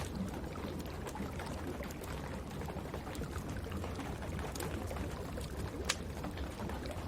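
Wood fire crackling in a fireplace, with a few sharp pops, the clearest two a little past the middle, over a steady hiss of rain.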